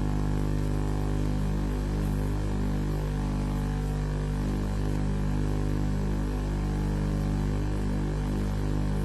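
Steady electrical mains hum with a stack of overtones, wavering slightly in a regular pattern: interference on the webcam's audio feed.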